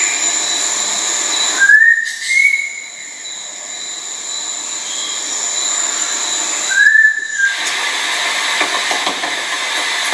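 Blue-winged leafbird giving short rising whistles: two close together about two seconds in and one more near seven seconds. Behind them are a steady high-pitched whine and a background hiss.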